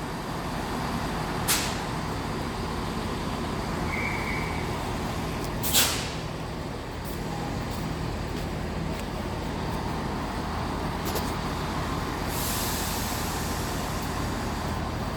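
Diesel passenger train pulling away, its engine running steadily. Two sharp bursts of air hiss come in the first six seconds, and a longer hiss of air comes near the end.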